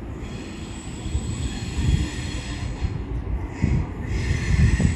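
Electric multiple-unit passenger train drawing into the platform, its wheels rumbling under a high-pitched brake squeal that grows louder near the end.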